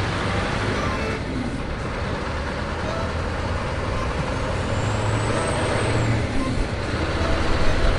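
Heavy truck engine running steadily with road noise, getting a little louder near the end.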